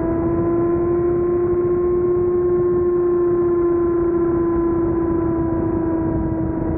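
Motorcycle engine running at high revs at highway speed under a brief burst of throttle, its note climbing a little over the first couple of seconds and then holding steady, over a wash of wind noise.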